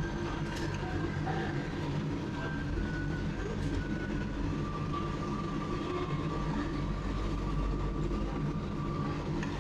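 Steady low mechanical rumble of a revolving sushi restaurant's conveyor machinery running. A faint thin whine is held through the middle, and there are a few light clinks near the start.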